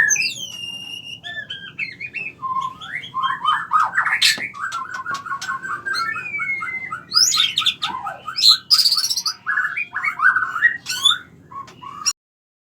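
Birds chirping and singing: whistled notes and squeaky chirps, with a long run of fast, evenly repeated notes in the middle. The sound cuts off suddenly near the end.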